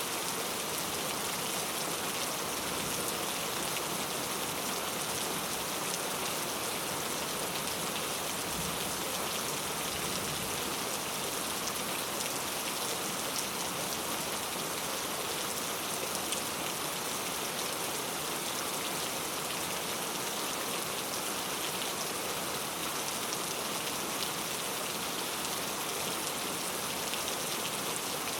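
Heavy rain falling steadily on mango tree leaves, a dense patter of drops.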